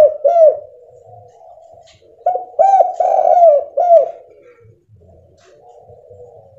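Spotted dove (tekukur) cooing: the last notes of one phrase at the start, then a full phrase of about five coos a little after two seconds in.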